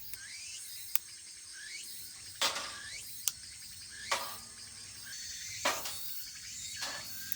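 Firewood burning and crackling, with about six sharp pops spread through the moment, over steady chirping of insects.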